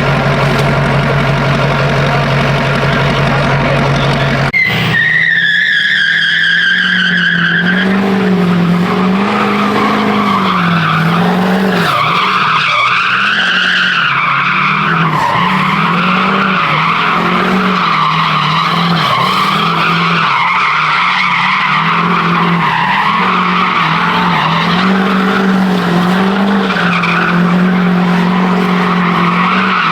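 Truck doing a burnout: engine held at high revs with the tyres spinning and squealing. The note is steady at first, then changes abruptly about four and a half seconds in to a wavering squeal that rises and falls as the revs swing.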